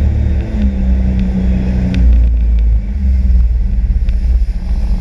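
Sea-Doo RXP-X 260 jet ski's supercharged Rotax three-cylinder four-stroke engine running under way, a steady loud drone whose pitch shifts slightly up and down.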